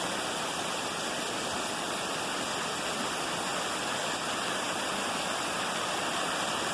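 Steady rush of storm runoff pouring over a small waterfall that forms only after heavy rain.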